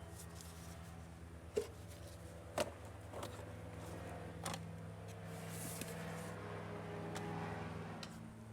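A few sharp clicks and knocks, the loudest about one and a half and two and a half seconds in, then a stretch of rustling. These are the sounds of hands working on the air-intake housing and filter parts, over a steady low hum.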